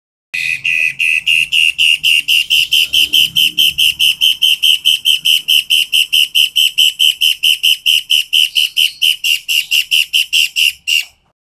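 Toed matahari songbird singing loud, sharp whistled notes in a long, rapid, even series, about five notes a second at one steady pitch, stopping near the end.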